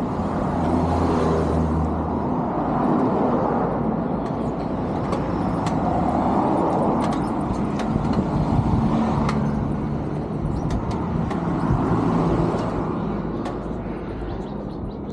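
Road traffic: motor vehicles running past on a street, a steady rumbling wash of tyre and engine noise with a few light ticks.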